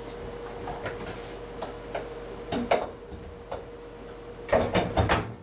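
Scattered clicks and knocks as a Whirlpool front-load washer's door hinge is fitted into its two slots and dropped into place, ending in a burst of louder knocks. A faint steady hum runs underneath.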